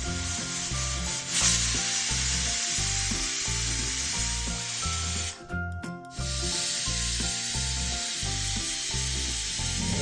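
Steady hissing from a pressure cooker on a high gas flame, over background music with a bass line. Both cut out briefly about five seconds in.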